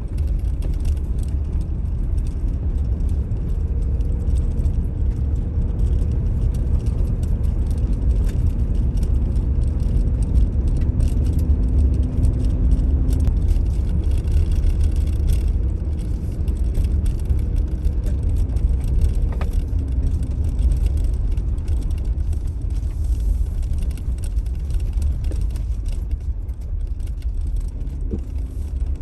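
Car driving along a road, a steady low rumble of road and engine noise.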